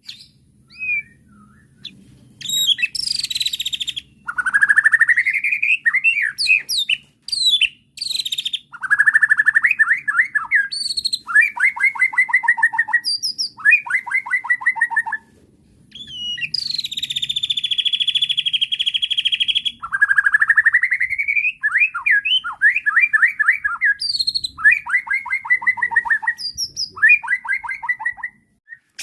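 White-rumped shama (murai batu) singing loudly in varied phrases: rising whistled sweeps, rapid runs of repeated notes, and a long harsh buzzy note a little past the middle.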